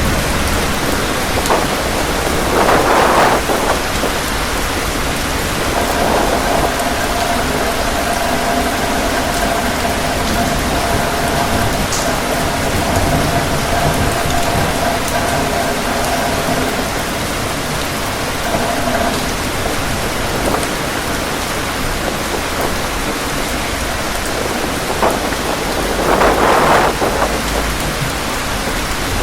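Heavy rain falling steadily with wind, swelling louder about three seconds in and again near the end. A steady whistling tone sounds over the rain through the middle for about thirteen seconds.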